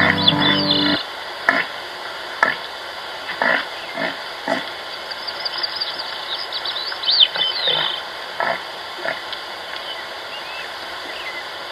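Animal calls after music stops about a second in: short, sudden cries every half-second to second, with a run of high chirps in the middle.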